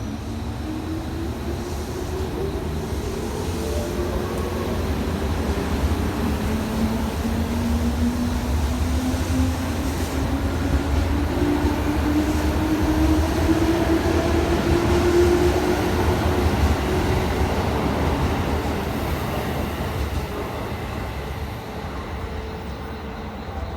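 JR West 221 series electric train pulling out of a station, its motor and gear hum rising slowly in pitch as it gathers speed over a steady low rumble. It grows louder, then fades in the last few seconds as the train draws away.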